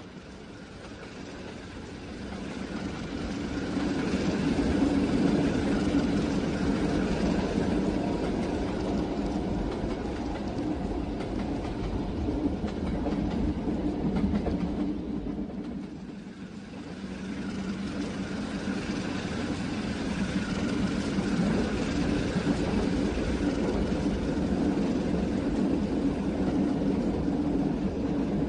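A train running on rails, a steady rumble with wheel noise. It swells over the first few seconds, fades briefly about halfway through, then builds again and holds.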